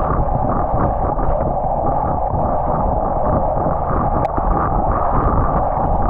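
Steady wind rush over the external microphone of a road bike's onboard camera while riding on wet roads, with a single sharp tick about four seconds in.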